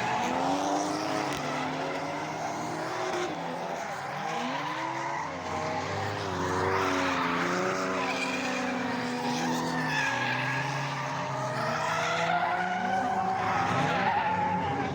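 Drift cars' engines revving up and down as they slide, with tyres skidding and squealing over the engine note.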